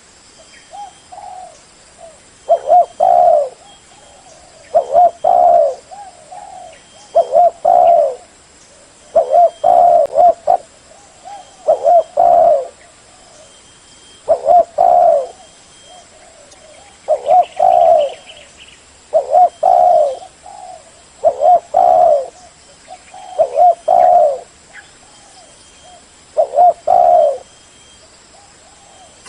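Spotted dove cooing, repeating its short multi-note call phrase about every two seconds.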